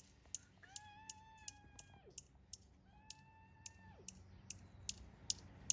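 A bird's sharp chip calls, repeated evenly about two or three times a second, with two long, high, drawn-out pitched notes, one about a second in and one about three seconds in.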